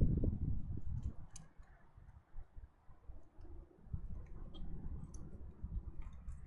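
Birds at a feeder close to the microphone: irregular clicks, taps and dull knocks, with a few brief faint high chirps.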